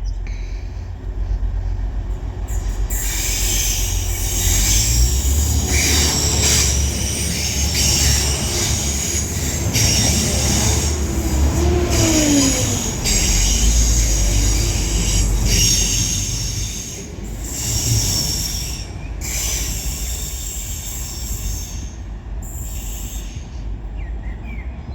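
Two coupled TransPennine Express Class 185 diesel multiple units passing through the station. There is a heavy, steady rumble of engines and wheels on the rails, with high-pitched wheel squeal over it. The sound eases slightly over the last few seconds.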